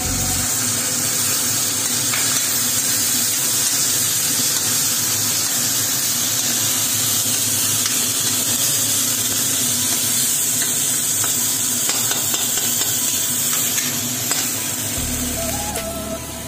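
Food frying in hot oil in a pan, a steady sizzling hiss.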